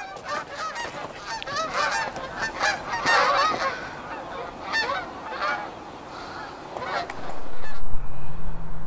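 A flock of geese honking, many calls overlapping, busiest around three seconds in and thinning out after about six seconds. Near the end a low steady hum comes in and grows louder.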